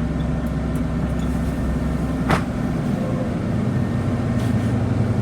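Bus's 5.9-liter Cummins diesel idling, heard from inside the cabin as a steady low hum. A single sharp knock comes about two seconds in, after which the hum's low note shifts slightly.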